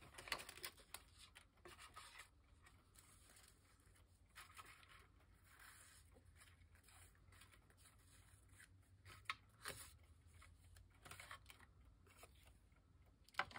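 Faint paper handling: soft rustling and sliding of cardstock, broken by a few short sharp clicks, the loudest about a second in, around nine to ten seconds in, and near the end.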